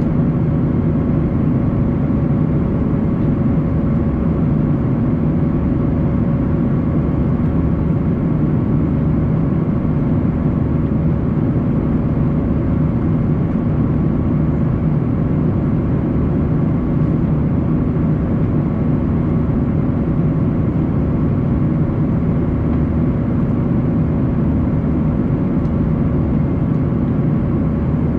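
Steady cabin drone of an Airbus A340-300 in flight, with its four CFM56 engines running. A steady hum runs through the even noise, which holds the same level throughout.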